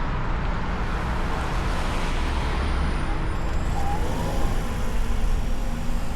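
A car driving through city traffic, heard from a hood-mounted microphone: a steady low rumble of engine and tyre noise with surrounding traffic. A short faint rising tone comes about four seconds in.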